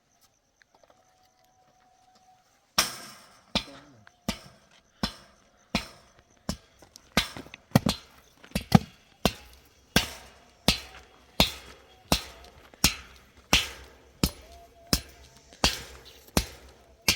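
Hammer blows struck steadily, about three every two seconds, starting about three seconds in, each a sharp hard knock with a short ring.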